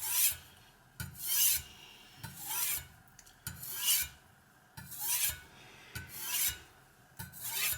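Knife edge drawn across a Spyderco medium-grit aluminium oxide bench stone wetted with water: light refining strokes under just the weight of the knife, seven evenly spaced scraping hisses about one every second and a quarter.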